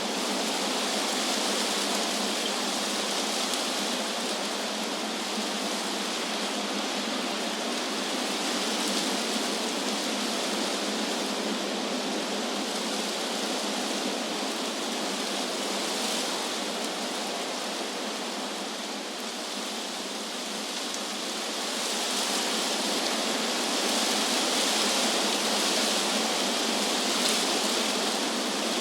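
Wind rushing through tree leaves: a steady hiss with no distinct gusts or drops, easing a little about two-thirds of the way in, then swelling again.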